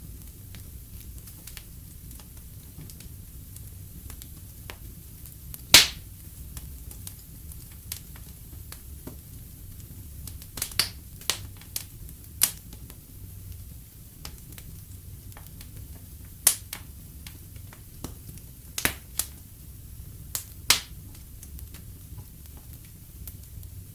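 Fire in a fireplace crackling, with sharp pops scattered through, the loudest about six seconds in, over a steady low rumble.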